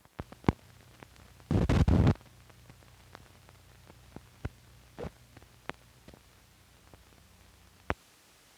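Surface noise from an old film soundtrack: scattered sharp clicks and pops over a faint low hum, with a loud half-second burst of crackle about a second and a half in. The hum cuts out just before the end, after a last pop.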